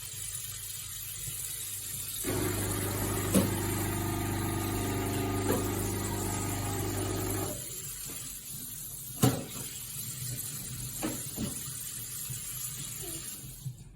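De'Longhi Icona pump espresso machine's pump humming steadily for about five seconds, starting a couple of seconds in. Several sharp clicks and knocks are heard; the loudest comes about nine seconds in.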